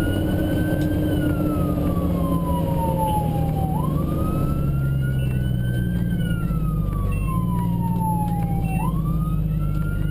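Fire engine siren in a slow wail, sweeping up quickly and gliding back down about every five seconds, over the steady running of the truck's engine and road noise.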